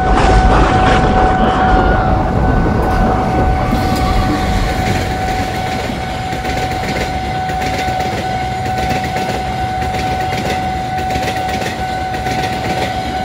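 Tegal Bahari express passenger train passing at speed, its wheels clattering over the rails, while the level-crossing warning signal sounds a steady tone. A low rumble dies away over the first couple of seconds.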